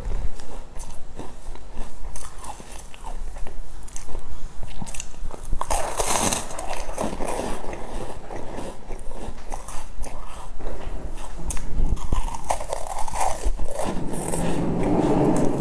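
Close-up mouth sounds of chewing and biting a sesame-coated pastry: soft crunching and many small wet clicks, denser and louder about six seconds in and again near the end.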